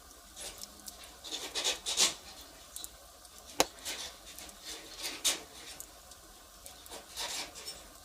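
Burning firewood crackling: irregular snaps and pops with short hissing flares, the sharpest pop about three and a half seconds in.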